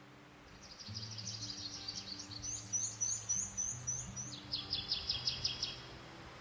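A small songbird singing: three quick phrases of rapid, high trills and chirps, over soft background music with low held notes.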